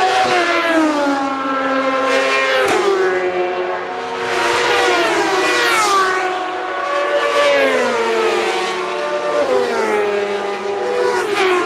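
Several superbike racing motorcycles pass one after another at high revs, their engine notes overlapping. Each note falls in pitch as the bike goes by, and a new bike swells in every two or three seconds.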